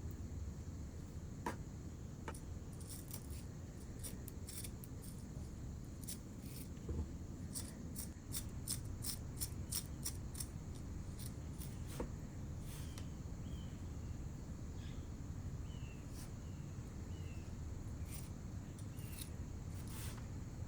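Close-up sounds of sculpting coarse chamotte clay by hand: a series of small clicks, taps and scrapes of tools and fingers working the clay, quickest about eight to ten seconds in.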